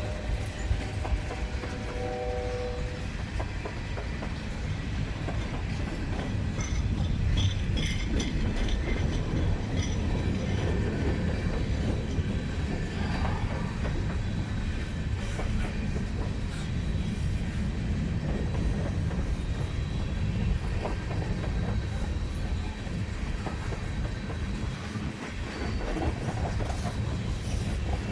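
A train rolling past, a steady rumble of wheels on rail with clicking over the rail joints. A brief tone sounds about two seconds in.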